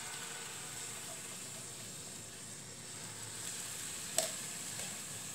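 Blended turmeric spice paste sizzling steadily as it is scraped into hot olive oil in a wok, with one sharp tap about four seconds in.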